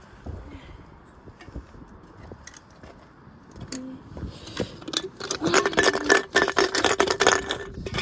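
Washing machine drum turning with a 6-litre plastic water bottle inside: a few scattered knocks at first, then from about five seconds a motor whine and a fast clatter of knocks and rattles as the bottle tumbles in the drum.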